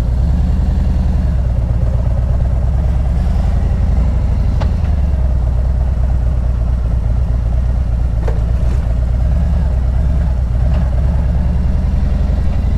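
Car driving, heard from inside the cabin: a steady low rumble of engine and road noise, with a couple of faint ticks.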